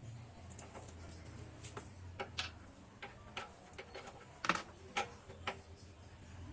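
Sharp, irregular metal clicks from a wrench working the last bolt on a motorcycle exhaust pipe, about one or two a second, over a faint low hum.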